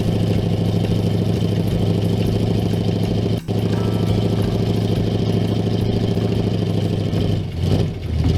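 A truck or tractor engine sound effect running steadily at a low idle, cutting out for an instant about three and a half seconds in and dipping briefly near the end.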